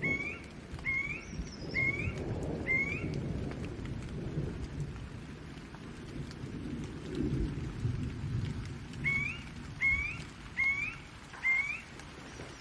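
Rain falling steadily with a low, rolling thunder rumble. Over it, a short rising chirp repeats about once a second, four times near the start and four more times about nine seconds in.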